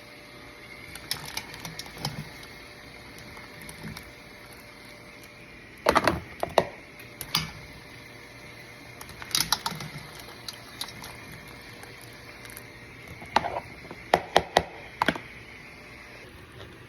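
Kitchen work: sharp clinks and knocks of pots and utensils in short clusters, the loudest about six seconds in, over a faint steady high whine that stops near the end.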